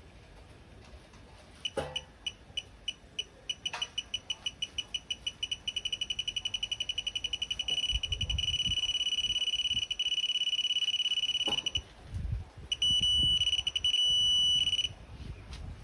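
Digital torque adapter beeping as a cylinder head bolt is tightened: single high-pitched beeps start about two seconds in and come faster and faster until they merge into a continuous tone, the signal that the set torque of 79 lb-ft is reached. The tone stops about three-quarters of the way through, then a second steady tone sounds for about two seconds, with a few sharp clicks from the wrench in between.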